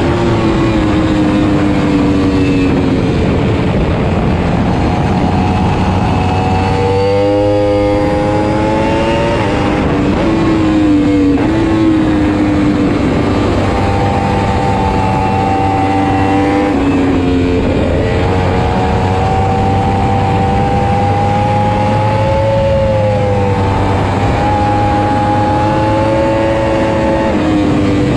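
Motorcycle engine running hard at high revs, its pitch rising and falling as the throttle opens and closes and the gears change.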